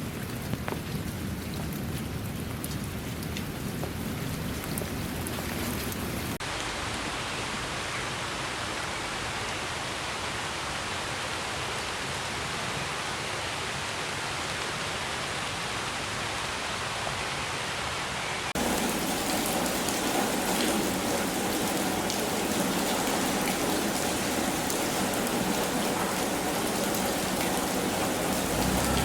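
Steady rain falling, an even hiss of drops. The sound changes abruptly about six seconds in and again about eighteen seconds in, growing louder, as one rain recording gives way to another.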